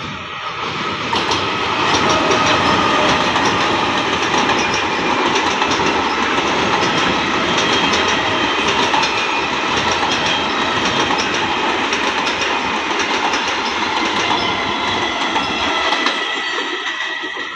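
An Indian Railways EMU local train passing close by. Its wheels clatter over the rail joints under a steady high whine. The sound builds over the first couple of seconds, holds, and begins to fade near the end.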